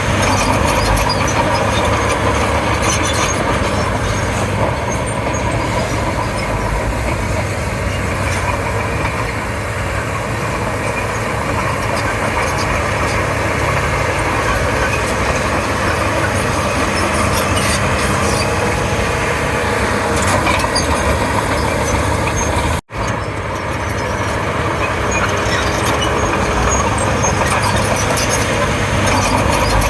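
Bulldozer's diesel engine running steadily and loudly while working, with track and blade noise mixed in; the sound breaks off for an instant about two-thirds of the way through.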